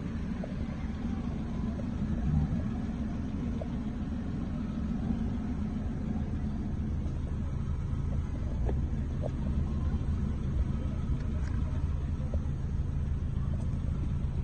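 Steady low rumble of a car engine idling, with a constant low hum.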